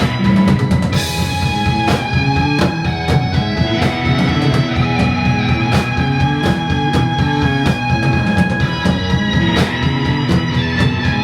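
Live psychedelic rock band playing an instrumental passage: electric guitar, bass and drum kit over held sustained notes, with cymbal crashes about a second in and near the end.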